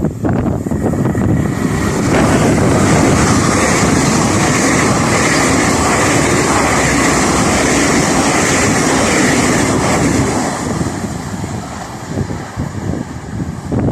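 A train passing the level crossing: a loud steady rush of wheel-on-rail noise that builds about two seconds in and eases off near the end, with wind buffeting the microphone.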